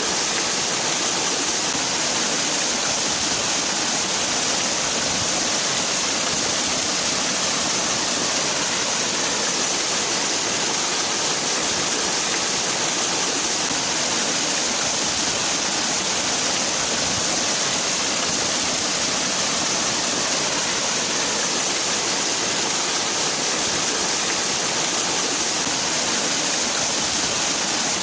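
Waterfall: water falling and splashing with a steady, even rush that does not change.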